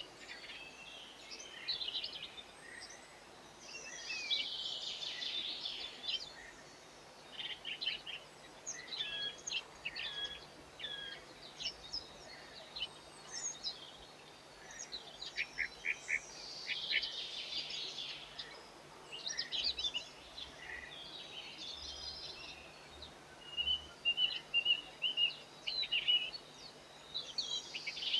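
Small songbirds chirping and twittering in many short, quick calls, with a fast run of repeated high notes near the end.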